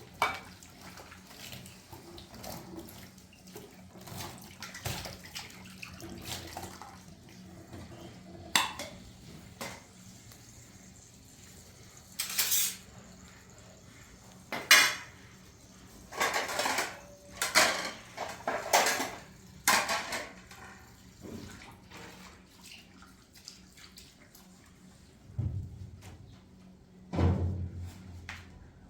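Intermittent clinks and clatters of hard objects knocking together, coming in scattered clusters over a quiet background.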